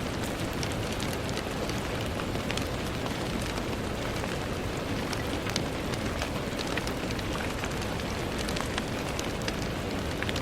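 Steady rain falling on a window pane, a constant hiss with many small, irregular drop taps on the glass.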